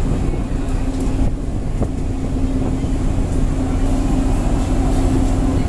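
Ferry's engines running with a steady low drone and an unbroken hum.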